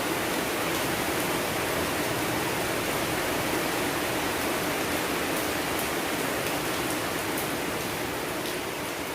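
Steady rainfall, an even hiss of rain with faint individual drop ticks.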